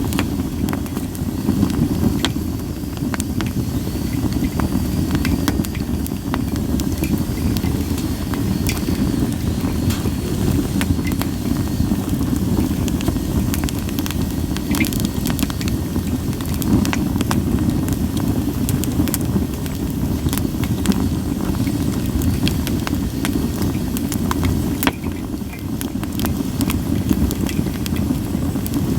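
Split sawtooth oak (kunugi) logs burning in a campfire: a steady low rush with frequent sharp pops and crackles scattered irregularly throughout.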